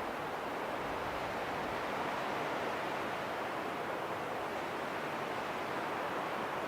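Wind blowing in a steady, unbroken rush, with no gusts or breaks.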